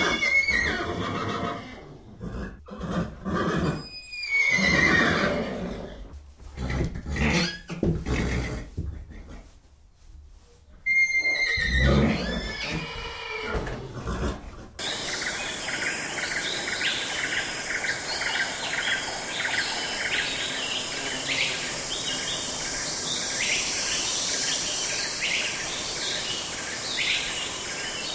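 Horses whinnying three times in the first half, each neigh falling in pitch, with breathy sounds between and a short lull before the last. From about halfway there is a steady outdoor background with many short, high chirps.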